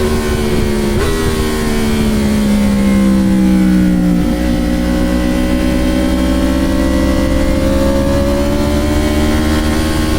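Motorcycle engine heard from on board at speed: the revs fall for about three seconds, with a short break about four seconds in, then climb steadily under acceleration.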